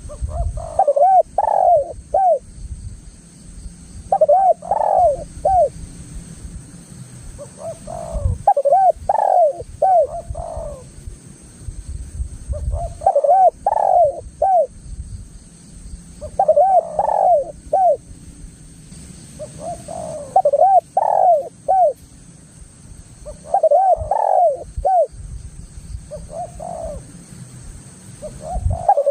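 Spotted dove (tekukur) singing its cooing song, a phrase of several quick coos repeated about every three to four seconds. Beneath it runs a low rumbling background noise, and a faint steady high hiss sits above.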